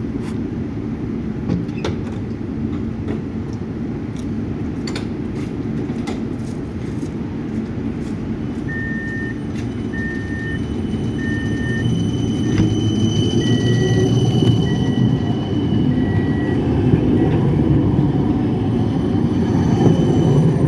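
GVB 15G tram standing at the stop, then pulling away: two groups of three short beeps, then the electric drive starts with a rising whine and a swelling rumble as the tram accelerates.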